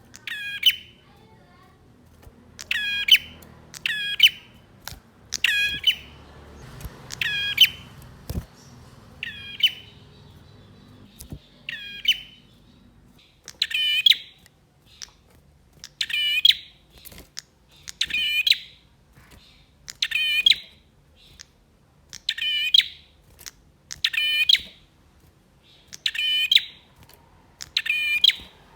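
Male prinia (prenjak) calling: short, sharp, high-pitched phrases repeated about every two seconds, some fifteen times in a row.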